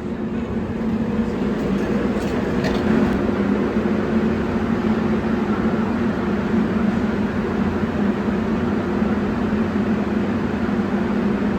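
Airport people-mover tram at the station: a steady low hum with a few faint held tones, growing a little louder over the first couple of seconds.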